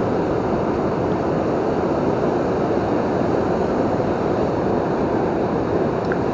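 Steady roar of water rushing over a river waterfall and rapids, a loud, even wash of noise that does not change.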